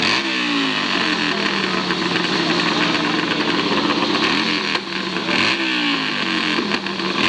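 Hillclimb racing motorcycle engine revving: the pitch rises sharply and falls back twice, once at the start and again about five seconds in, with the engine running steadily between.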